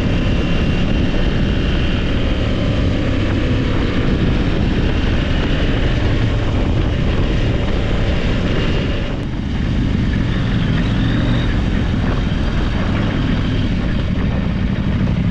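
Adventure motorcycle riding: the engine runs under a steady rush of wind noise. About nine seconds in, the sound briefly drops and changes character.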